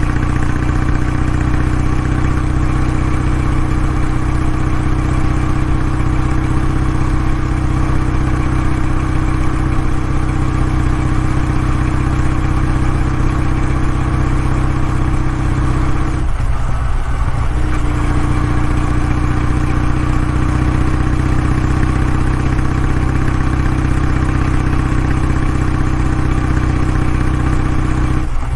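Exhaust of a Kawasaki W650, an air-cooled parallel-twin motorcycle, running at a steady, even engine speed. The steady note breaks off briefly about 16 seconds in, then resumes at the same pitch.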